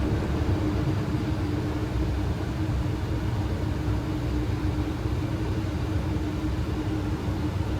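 Steady ambient noise on a Boeing 737 flight deck in flight: airflow rush and engine rumble with a constant low hum.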